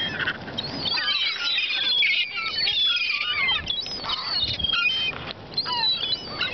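A flock of seagulls calling over thrown bread crumbs, many short high cries overlapping one another as they compete for the food.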